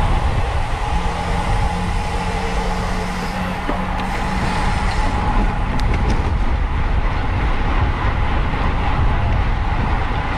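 Steady wind rush over the microphone with road and tyre noise from a bicycle ridden at racing speed in a criterium.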